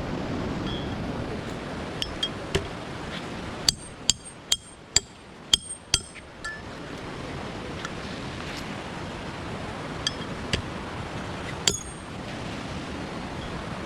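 Sharp metallic clinks: a quick run of about seven about four to six seconds in, and another near the end, over a steady background noise.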